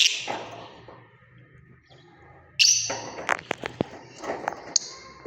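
Lovebirds making short shrill calls in bursts, with a cluster of sharp taps or clicks about three to four seconds in.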